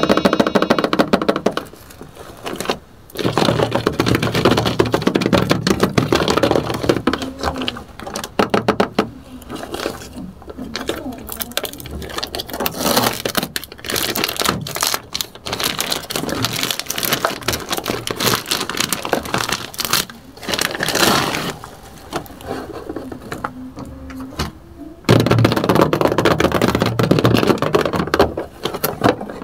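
Clear plastic shrink-wrap on a toy box crinkling and crackling as hands handle and pull at it, in irregular rustles with a few brief lulls, loudest near the end.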